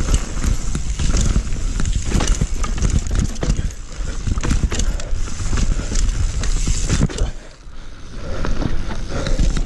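Mountain bike rattling and clattering over a rough trail at speed: chain, suspension and tyres knocking on rocks and roots, over a steady rumble of wind on the microphone. The clatter drops away briefly about seven seconds in, then returns.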